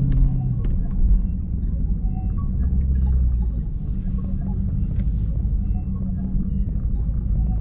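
Dodge Charger's V8 engine running with a steady low rumble.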